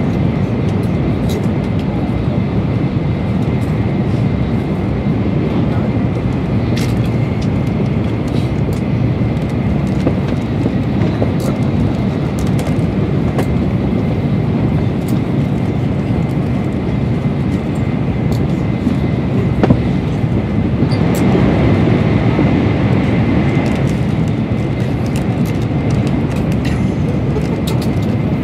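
Steady rumble and rush of an N700-series Shinkansen running at speed, heard from inside the passenger cabin, with a faint steady whine above it. About three-quarters of the way through it grows louder and hissier for a few seconds, then settles back.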